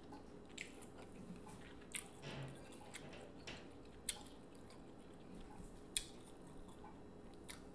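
Quiet, close-up eating sounds: slow chewing with about five sharp, wet clicks and smacks spread through it, the loudest about six seconds in.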